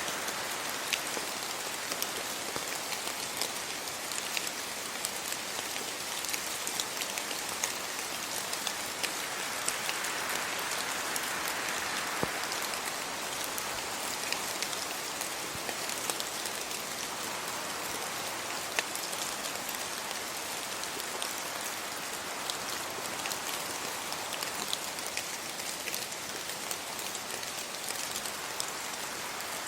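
Steady rain falling on leaves and the road, a dense hiss with many separate drop ticks. The hiss swells for a few seconds about ten seconds in.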